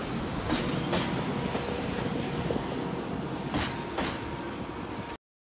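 Grand Canyon Railway passenger cars rolling past on departure, their wheels clacking over rail joints above a steady rumble, with a faint steady squeal. The sound cuts off suddenly near the end.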